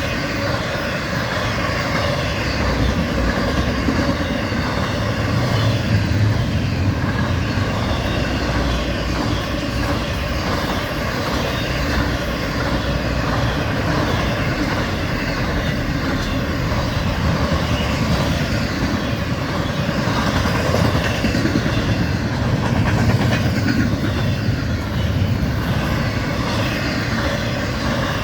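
Florida East Coast Railway freight train's cars rolling steadily past: continuous wheel-on-rail noise.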